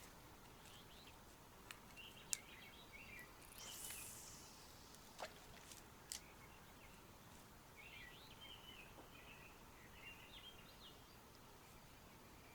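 Near silence with faint bird chirps in two short runs, a few soft clicks, and a brief hiss about four seconds in.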